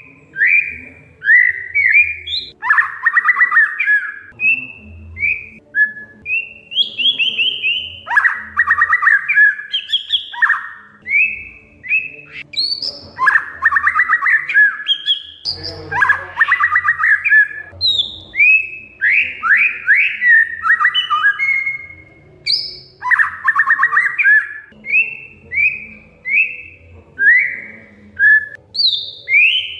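Oriental magpie-robin (kacer) singing: a run of short whistled notes, about two a second and many sliding in pitch, broken several times by rapid chattering trills.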